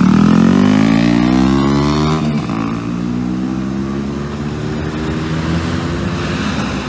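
A vehicle engine accelerating: its pitch climbs for about two seconds, drops suddenly at a gear change, then climbs slowly again as the sound fades.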